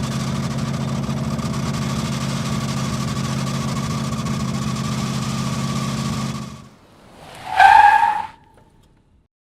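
A tractor engine runs with a steady, even drone and fades out about seven seconds in. A short, bright squeal that falls slightly in pitch follows near the end and is the loudest sound.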